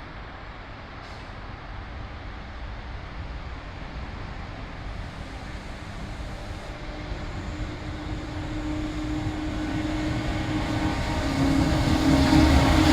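A train approaching on the line, its rumble growing steadily louder, with a steady hum coming in about halfway through and getting stronger near the end.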